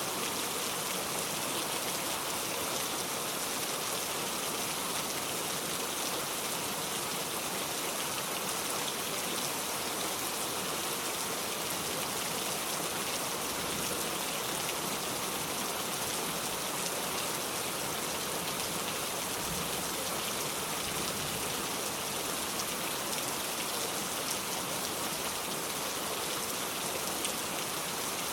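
Steady rain, an even hiss of drops falling on a surface, unchanging throughout.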